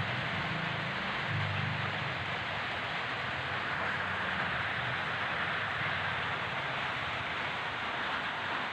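A steady rushing noise, with a low hum underneath that fades away within the first two seconds.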